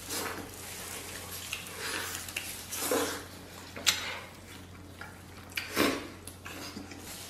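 Close-up mouth sounds of someone eating roast lamb off the bone: wet chewing and smacking, with a few sharp smacks as meat is bitten and pulled off the rib.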